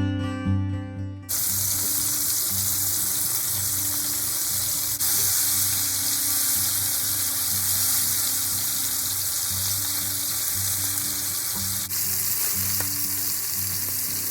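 Food sizzling as it fries in a pan, starting about a second in, with quiet music underneath.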